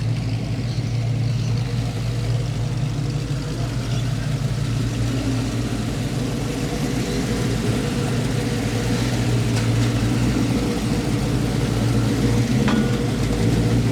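Car engine running slowly with a steady low rumble, growing slightly louder near the end.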